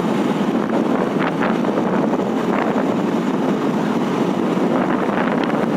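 Steady rush of wind on a microphone worn by a motorcyclist riding at highway speed, mixed with the motorcycle's road noise.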